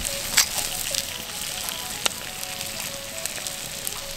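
Shucked oysters sizzling in their own liquid in a skillet over a wood campfire: a steady frying hiss with sharp pops now and then.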